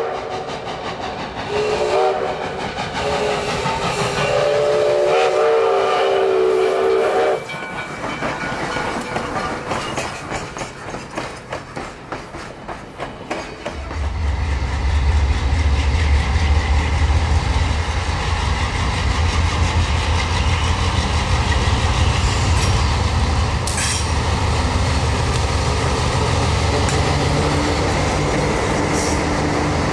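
A 2-8-2 steam locomotive's chime whistle sounds, a brief blast and then a long one of about five seconds, followed by passenger coaches rolling past with their wheels clicking over the rail joints. From about 14 seconds in, Alco diesel locomotives pass with a freight, their engines making a loud, steady, deep drone.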